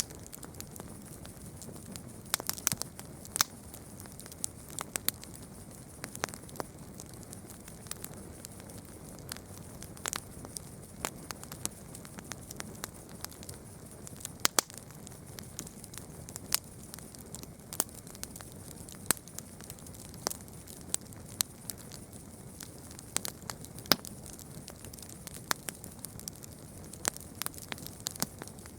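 Campfire burning, wood crackling with irregular sharp pops of varying loudness over a steady soft hiss.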